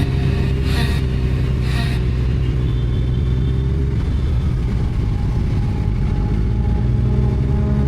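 Yamaha FZ8's inline-four motorcycle engine running steadily, a deep even drone.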